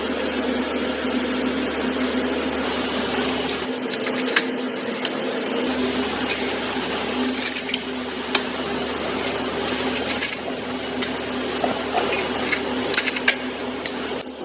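Steady hum of assembly machinery, with scattered sharp metallic clicks and clinks of tools and parts every few seconds.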